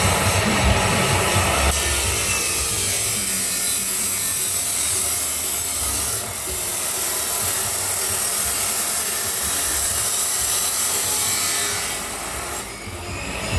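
Angle grinder's abrasive disc cutting through stainless steel pipe: a steady, loud, hissing grind. It eases off briefly about six seconds in and falls away near the end before biting again.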